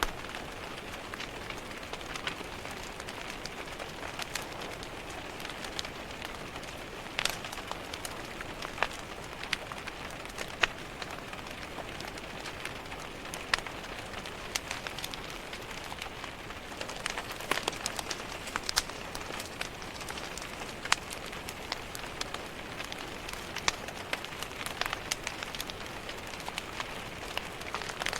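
Steady rain pattering on a window, mixed with a wood fire crackling in a fireplace, its sharp pops scattered irregularly every second or so.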